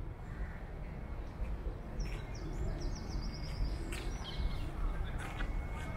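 Outdoor ambience with a steady low rumble. A small bird sings a quick run of high notes about two seconds in, and a shorter phrase about four seconds in.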